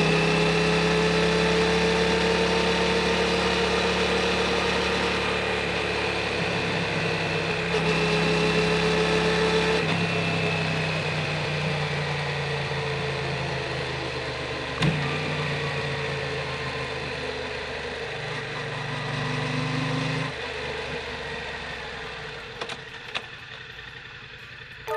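Yamaha MT-07's parallel-twin engine running through an Akrapovic Racing Titan full exhaust at low, fairly steady revs, with the note stepping a few times and fading near the end. A single sharp click sounds about halfway through.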